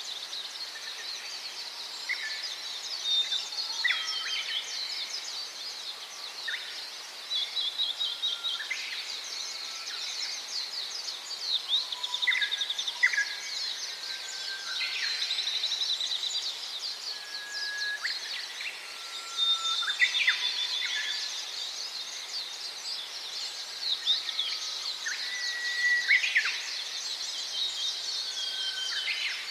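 Gouldian finches calling: a continuous chatter of many overlapping high chirps and trills, with short whistled notes lower down every second or two.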